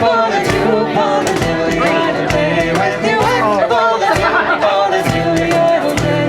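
Live acoustic Irish folk music, an instrumental break in a ballad: a banjo-led melody over a steady strummed beat.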